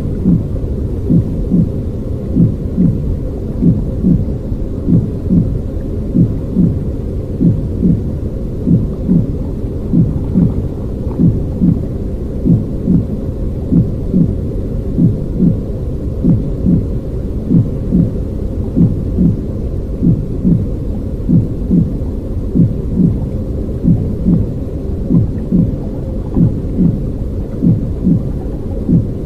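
Baby-soothing noise track: a steady low rumbling noise with a regular soft thud pulsing nearly twice a second.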